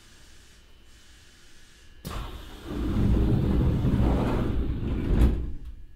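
Train noise heard inside a Hokuso Railway 9100 series car: a faint hiss, then a loud low rumble that starts sharply about two seconds in, holds for about three and a half seconds and dies away.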